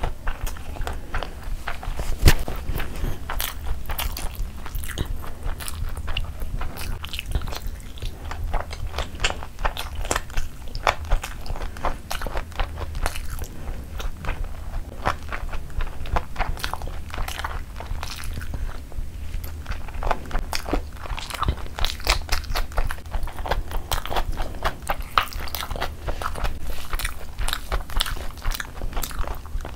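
Close-miked chewing and biting of chicken mandi biryani and chicken eaten by hand: wet mouth sounds with many small clicks, steady throughout and one sharper click about two seconds in. A low steady hum lies under it.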